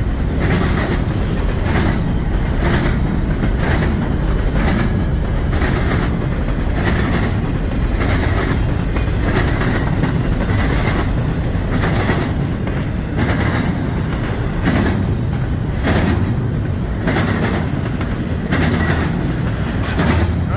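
A long freight train's cars rolling past close by, with a continuous rumble and steady wheel clatter that repeats about once a second as the wheel sets pass.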